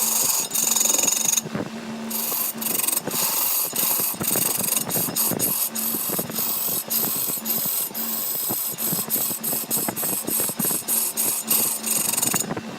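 A woodworking machine running with a steady hum while a tool scrapes and clicks rapidly and irregularly against wood. The scraping stops for a moment about one and a half seconds in and again near the end.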